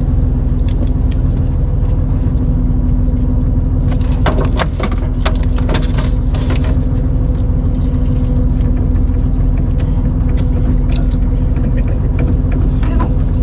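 Fishing boat's engine running with a steady hum and low rumble. A scatter of clicks and knocks from about four to seven seconds in.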